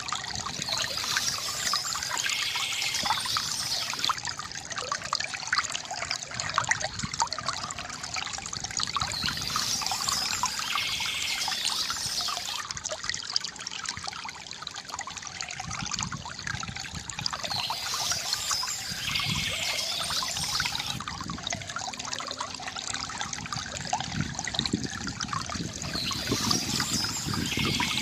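Water trickling and gurgling steadily from a bamboo fountain, with a brighter, higher patch of sound coming back about every eight and a half seconds.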